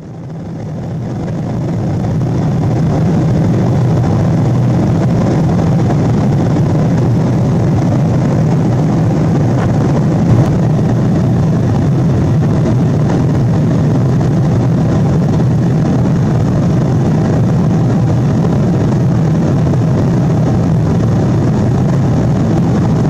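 Steady cabin noise of a Boeing 777-200 in flight: jet engines and airflow heard from inside the passenger cabin, a deep even rush that fades in over the first couple of seconds and then holds level.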